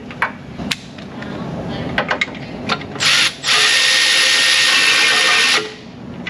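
Light metallic clicks of a socket on a bolt, then a handheld power tool runs hard for about two and a half seconds, stuttering briefly as it starts and cutting off sharply, driving in the last torque converter bolt.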